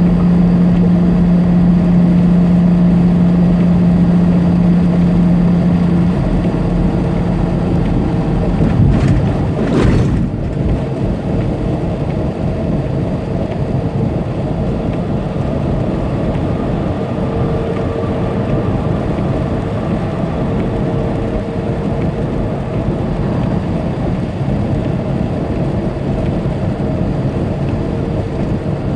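Heavy truck heard from inside the cab: the diesel engine drones steadily with road noise. About nine seconds in a brief rushing swell passes, the strong engine drone fades, and steady engine and road noise carries on.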